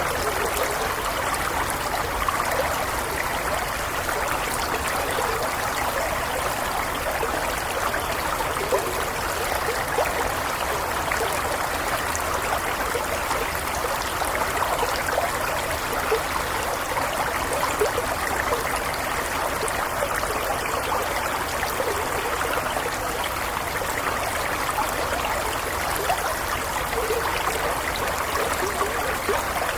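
A small stream flowing steadily over stones, a continuous burbling and trickling of water with no letup.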